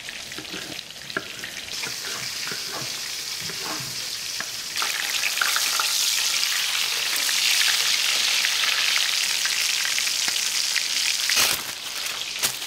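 A few light knife taps on a wooden cutting board as cherry tomatoes are halved, then a breaded chicken cutlet frying in butter and avocado oil: a steady sizzle that grows loud about five seconds in.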